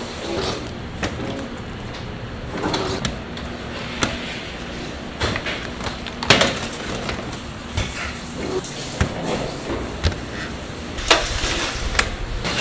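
Factory clatter: irregular knocks and clanks, about eight in all, over a steady background noise, with a sharp one a little past the middle.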